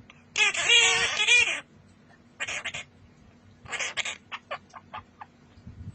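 Parrot calling: one long wavering call, then two shorter calls and a quick run of short chirps near the end.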